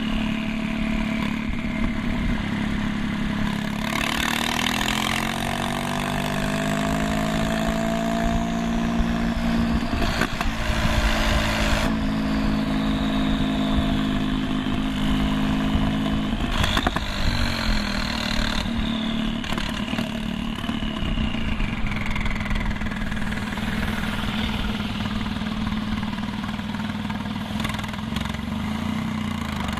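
A 2001 Porsche 996 911 Turbo's twin-turbo flat-six, straight-piped with no mufflers, running stationary. It idles, is revved up about four seconds in and held at raised revs for roughly twelve seconds, then drops back to idle. A faint high whistle glides slowly down in pitch after the revs.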